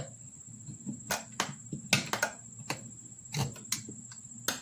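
Irregular sharp knocks and clicks, about nine of them, as a riding lawnmower tire is worked back over its wheel rim with hands and a pry bar.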